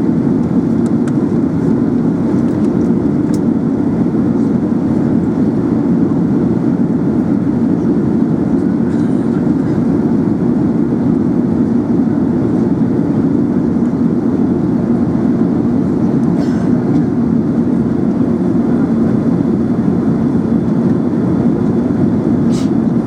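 Steady cabin noise inside an Airbus A380 in flight: an even low roar of airflow and engines that does not rise or fall.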